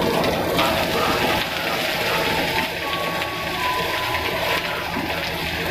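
Mustard greens and cabbage frying in a hot wok: a steady sizzle.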